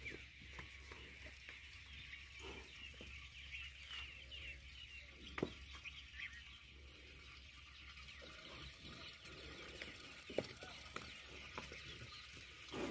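Faint, continuous chirping of small birds, with a couple of sharp knocks about five and ten seconds in.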